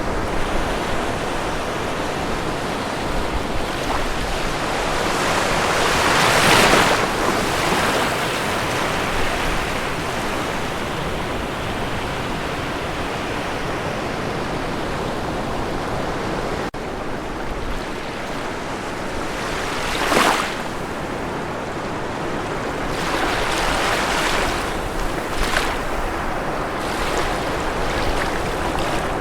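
Ocean waves washing on a shore as continuous surf noise, with louder breaking waves swelling up about six seconds in, again around twenty seconds, and a few times near the end.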